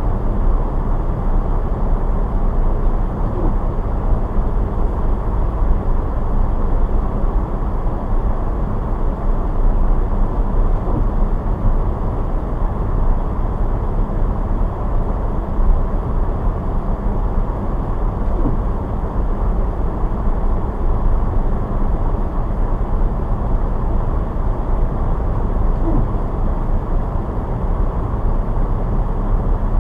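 Car driving on a snowy road: a steady low rumble of engine and tyre noise that runs on unchanged.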